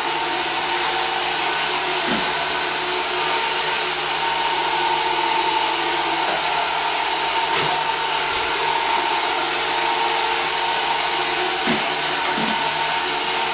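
Roomba robot vacuum running steadily, its motor and suction fan making a constant whir with a thin whine over it.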